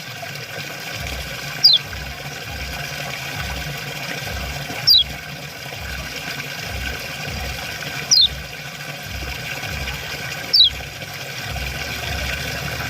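Kecial kuning, a white-eye, giving four short 'ciak' calls, each a quick falling chirp, spaced a few seconds apart, over a steady background of running water.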